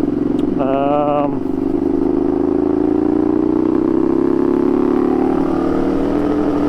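Ducati Scrambler 800's air-cooled L-twin engine through an unbaffled Arrow titanium exhaust, running steadily at low revs while ridden slowly, the engine note rising a little midway. A short wavering higher tone sounds about a second in.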